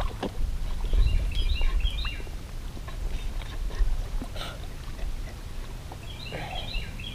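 A small songbird singing quick runs of repeated chirping notes, twice, over a steady low rumble of wind on the microphone, with a few faint clicks and knocks.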